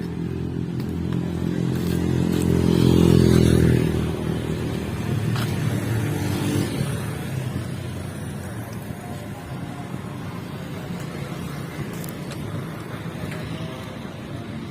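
Truck engine running close by, loudest about three seconds in, then falling away to a steady rumble of engine and traffic.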